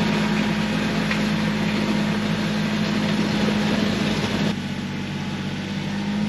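Kioti CK3510 compact tractor's three-cylinder diesel engine running steadily under load, pulling a land plane over gravel. About four and a half seconds in the sound drops in level and loses some of its hiss.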